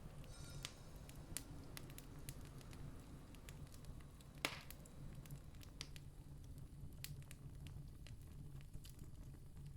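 Campfire crackling with scattered sharp pops, one louder pop about four and a half seconds in, over a low steady rumble.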